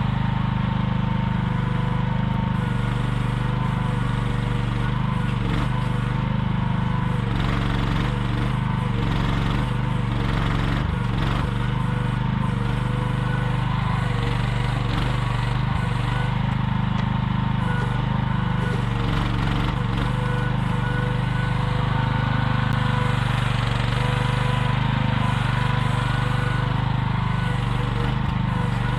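AGT QH12R one-ton mini excavator's engine running steadily while it digs, with a few faint knocks between about seven and twelve seconds in.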